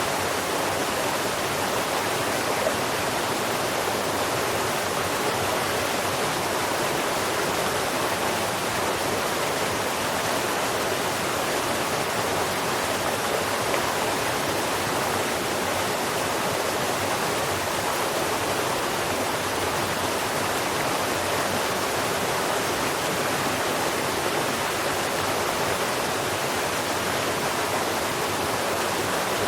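Steady, even rushing of running water, with no birdsong or other distinct sounds standing out.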